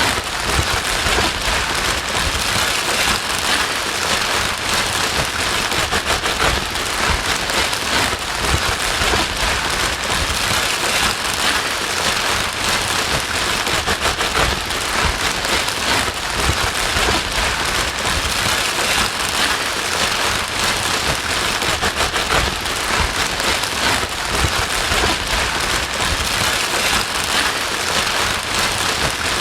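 Continuous white-noise track: a steady, even hiss with a fine crackling patter, like heavy rain.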